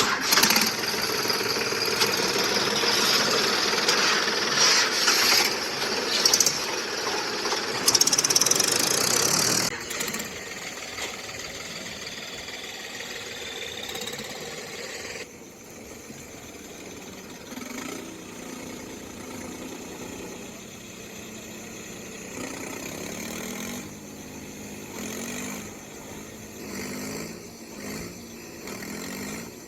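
Motor and gears of a radio-controlled toy tractor running as it drives off-road. It is loud for the first ten seconds, then drops to a quieter run with a few pitch changes.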